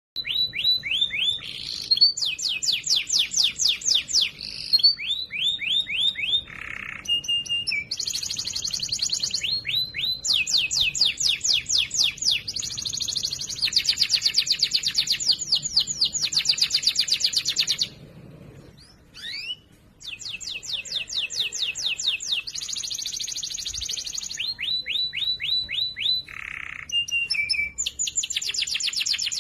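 Domestic canary singing a loud, clear song of fast trills and rolls, each phrase a rapid run of repeated notes, with a brief pause about eighteen seconds in.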